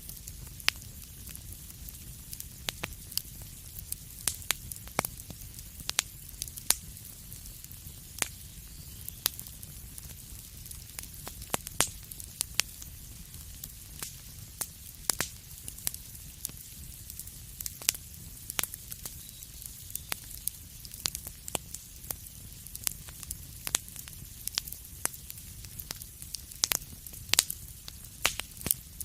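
Wood fire in a fireplace crackling, with sharp irregular pops and snaps several times a second over a steady low hiss and rumble of the burning.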